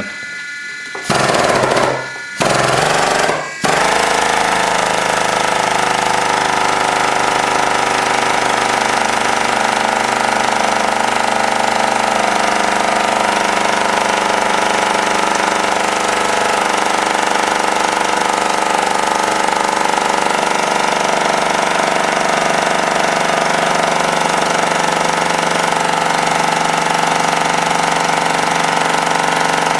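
Hydraulic press's pump motor starting about a second in, cutting out briefly twice, then running loudly and steadily.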